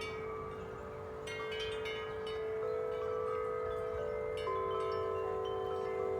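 A set of large tuned wind chimes ringing in strong wind: deep, long-sustained tones overlap while the tubes keep getting struck, with a flurry of strikes about a second in and another strike near the middle.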